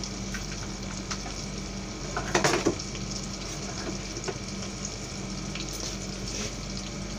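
Onion, ginger and garlic sizzling steadily in hot oil in a rice cooker, over a steady low hum. A brief louder knock about two and a half seconds in.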